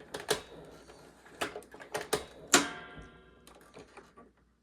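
A few sharp clicks and clunks from handling a 1993 Hoover PowerMax upright vacuum, its motor still off. The loudest, about two and a half seconds in, is followed by about a second of metallic ringing from one of its springs.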